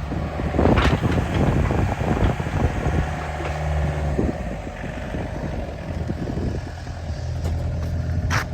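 Hyundai R55-7 mini excavator's diesel engine running steadily, with a sharp knock about a second in and another near the end.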